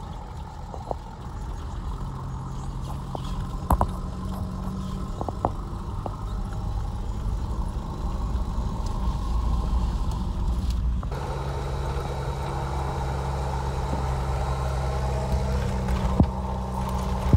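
Steady drone of a 4x4's engine and tyres heard from inside the cab while driving a snowy road, with a few light knocks along the way. The sound changes about eleven seconds in and gets a little louder.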